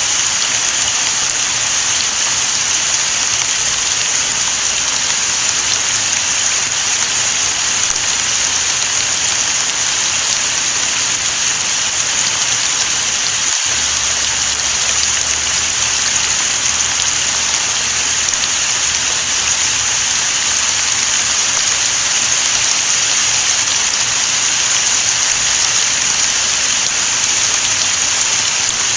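Steady rain falling, an even, dense hiss that does not let up.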